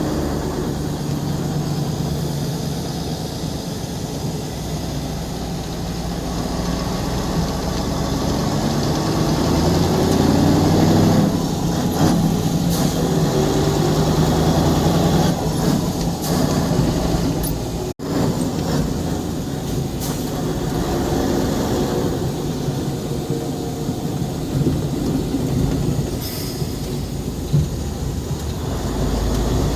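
Mercedes-Benz SK 2235 truck's V8 diesel engine running under way, its pitch climbing as it pulls and then dropping back as it changes gear. The sound cuts out abruptly for an instant about two thirds of the way through.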